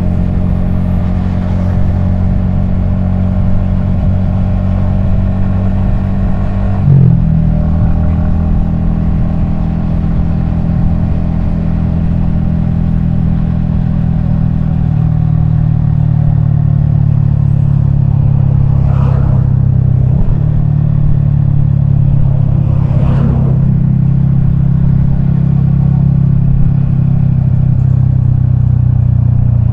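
Yamaha XSR155's single-cylinder engine and exhaust pulling steadily under way, recorded from a helmet-mounted camera. The engine note steps abruptly about seven seconds in and again around twenty seconds in.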